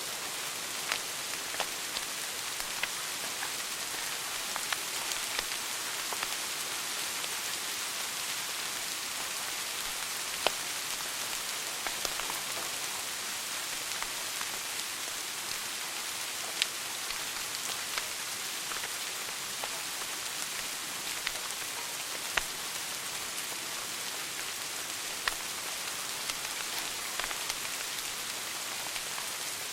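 Wood fire burning in a fireplace: a steady hiss with irregular crackles and sharp pops, a few of them louder than the rest.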